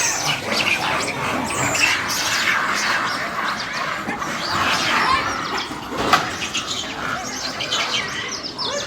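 Monkeys shrieking and squealing in a fight: many short, high-pitched calls overlapping and rising and falling in pitch, with a sharp click about six seconds in.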